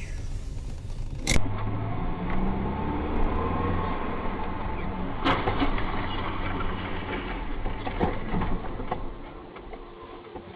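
A car's engine and road noise heard from inside the moving car, as dashcam audio, with a sharp knock about a second in and another about five seconds in.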